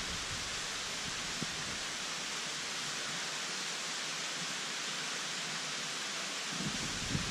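Steady, even rushing of a waterfall. Low rumbles and light knocks on the microphone come in near the end.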